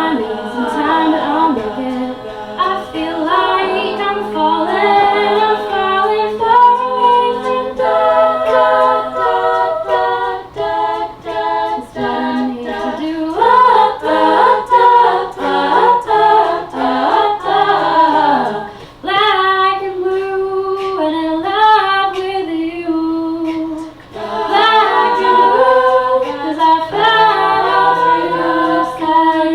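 A cappella group singing: a female lead over a choir of backing voices, with no instruments, with short breaks in the singing about ten, eighteen and twenty-four seconds in.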